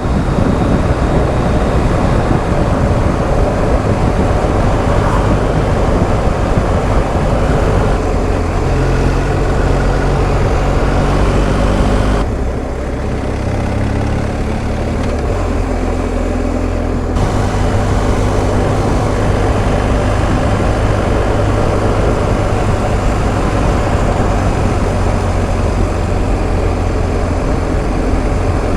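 BMW R1250 GS Adventure's boxer-twin engine running while the motorcycle is ridden, over a steady rush of riding noise. The engine note shifts a few times, and the sound goes briefly quieter and duller a little under halfway through before picking up again.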